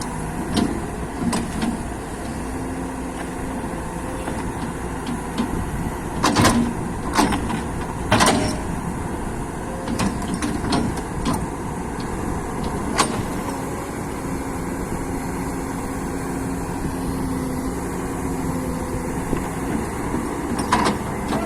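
Excavator engine running steadily, with a handful of sharp knocks scattered through, a cluster of them a third of the way in and more near the end.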